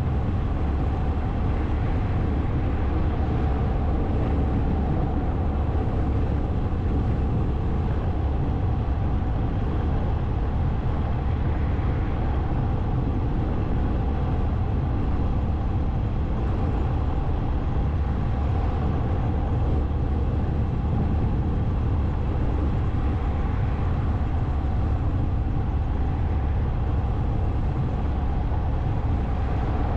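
Motorcycle engine running at a steady speed with road and wind noise while riding, even and unchanging throughout.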